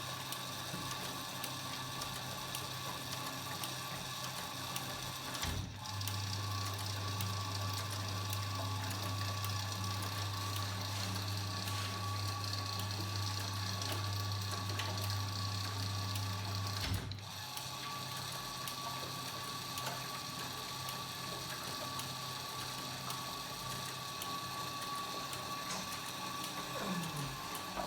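Washing machine running: a steady motor hum with a faint high whine. The hum grows louder for about eleven seconds in the middle, then drops back, and a short falling tone comes near the end.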